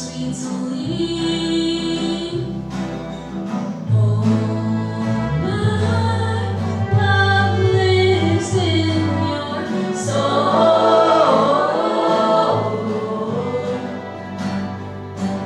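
Group of voices singing together in harmony over instrumental accompaniment, with a sustained low bass note underneath.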